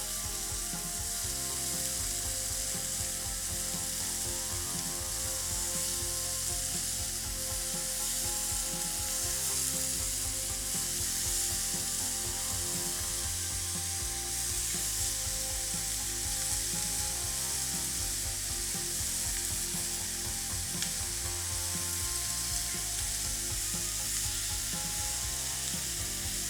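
Chicken thigh pieces in a dry rub frying in a hot pan: a steady sizzle with constant crackling spits.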